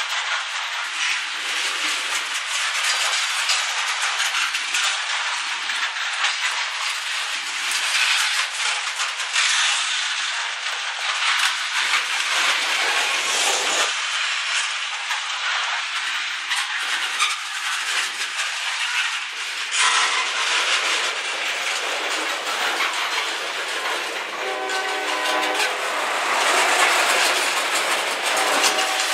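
Freight train's covered hopper cars rolling past at close range, steel wheels clicking and rumbling over the rails with a steady noisy rush. A train horn sounds briefly near the end.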